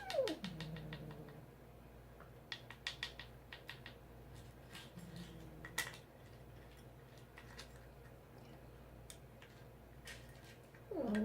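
A cat meows once at the start, its pitch falling steeply, and again near the end, with a faint short mew about halfway. In between come clusters of quick light clicks and ticks.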